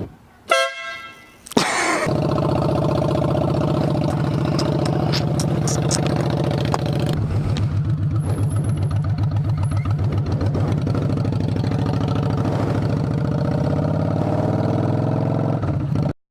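A vehicle horn honks briefly. About two seconds in, a motorcycle engine comes in abruptly and runs steadily with a rapid low pulse.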